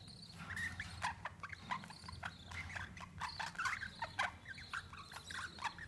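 Budgerigars chattering: a continuous run of short, rapid chirps and warbles.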